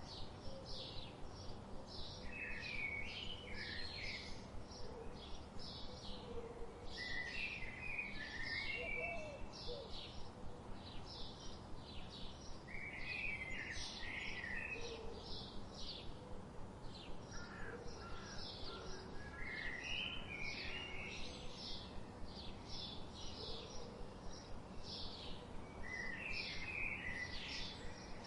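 Songbirds chirping: a rapid run of short, high chirps keeps going, and a lower warbled phrase comes in about every five seconds, over a steady background hiss.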